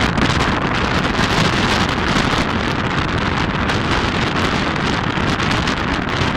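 Wind buffeting a microphone held out of a moving passenger train's window, over the steady running noise of the train on the track.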